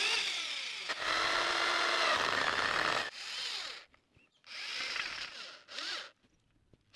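Power drill driving screws into wooden battens to fix an iron strap and L-brackets at the frame corners: several bursts of motor whine, the longest about two seconds, starting and stopping with short pauses between.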